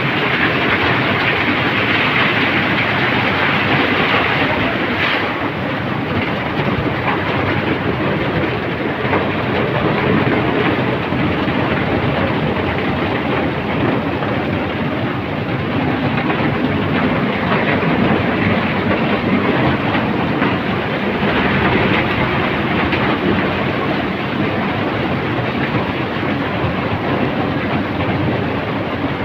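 Heavy rain falling: a loud, steady, dense hiss.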